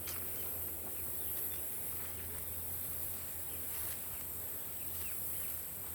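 Outdoor insect chorus, a steady high-pitched trilling, with faint short bird chirps now and then.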